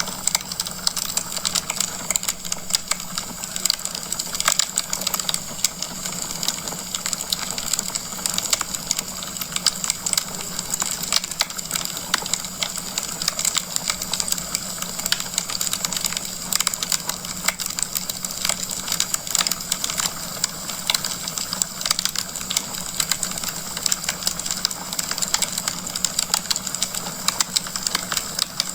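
Wood fire crackling in a fireplace: dense, irregular sharp pops and snaps from the burning logs over a steady low hiss.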